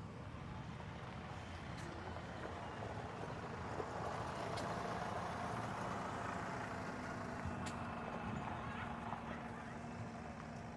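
A vehicle engine running steadily at a low pitch, growing louder around the middle and easing off again as it passes by.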